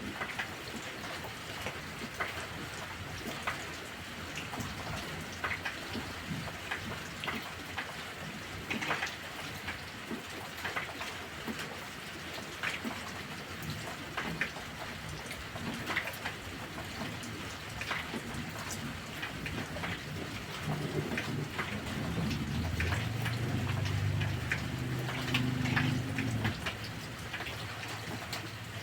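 Heavy rain falling steadily, with many sharp drop hits, and a low roll of thunder that swells about three-quarters of the way through and fades after about five seconds.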